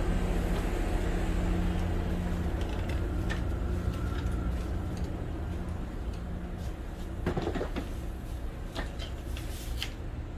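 Haramain high-speed train running: a steady low rumble with a faint hum that fades out about six and a half seconds in, and a few light clicks and rattles in the last three seconds.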